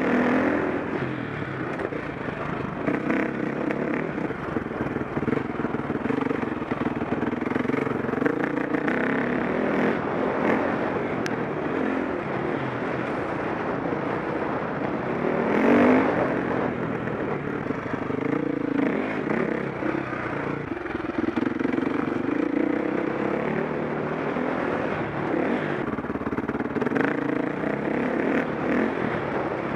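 KTM 525 SX single-cylinder four-stroke motocross engine under way, revving up and dropping back again and again as the bike is ridden around the track, with one short loud swell about halfway through.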